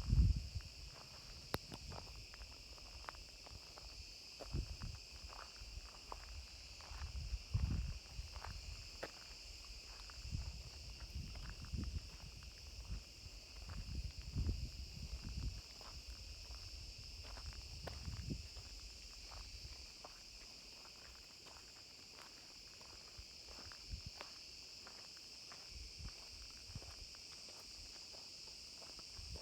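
Steady high-pitched chirring of an insect chorus in the forest, with irregular low rumbles coming and going through the first twenty seconds and then dying away.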